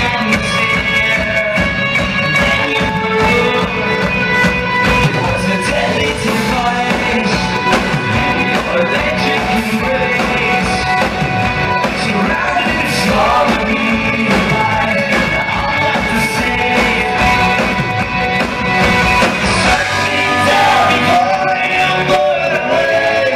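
Live hard rock band playing loudly: distorted electric guitars, bass and pounding drums with a singer's vocals. The low bass drops out about twenty seconds in.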